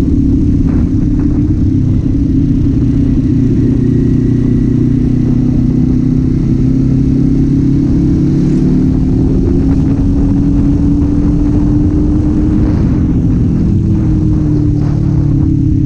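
Kawasaki Z400's parallel-twin engine and exhaust running under way, the engine note climbing slowly through the middle as the bike gathers speed, then shifting pitch near the end.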